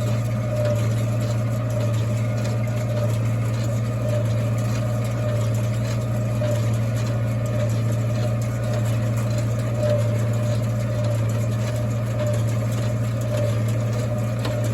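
Old New Holland 68 square hay baler running with the tractor that drives it: one steady, even mechanical drone with no break. It runs smoothly, like a sewing machine.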